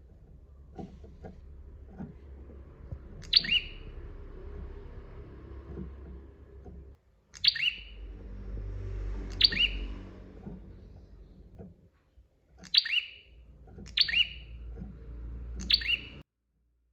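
Prinia (prenjak) calling: six short, sharp notes that each drop quickly in pitch, spaced irregularly, over a low background hum. The sound cuts off suddenly near the end.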